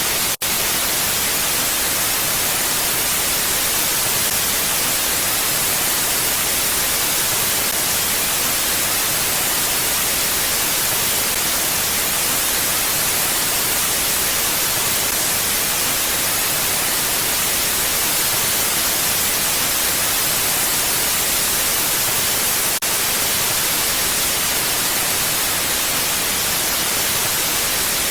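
A steady, even hiss like white noise, brightest in the treble and with no rise or fall of gusts. It cuts out for an instant twice: just after the start and about three-quarters of the way through, where the loop appears to be joined.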